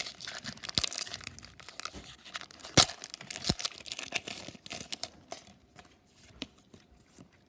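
A Pokémon card booster pack's foil wrapper being torn open and crinkled, with quick crackles and snaps and one sharp rip about three seconds in. It fades to a few faint rustles after about five seconds.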